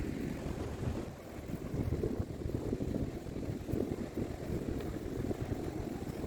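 Wind buffeting the microphone, a gusting low rumble.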